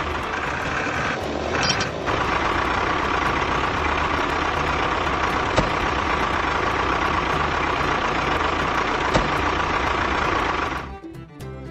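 A steady, noisy machine sound running for about eleven seconds and stopping shortly before the end, with two sharp clicks partway through.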